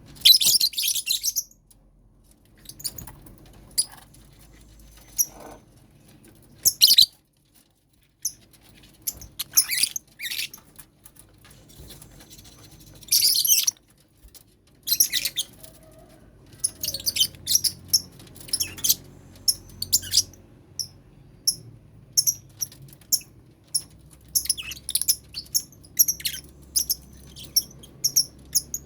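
Lovebirds calling in short, shrill high-pitched chirps and screeches, some loud bursts at the start and about 13 seconds in, then a quicker run of short chirps in the second half.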